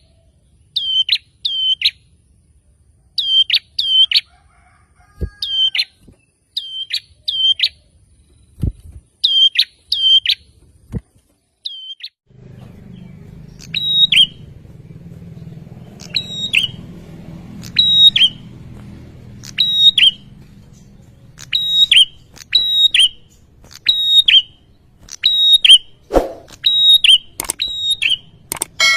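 A prenjak (small warbler-type songbird) giving loud, sharp, repeated chirps, in quick pairs and triplets at first. About halfway through they settle into a steadier run of roughly one call a second over a low rumbling background, with a few low knocks.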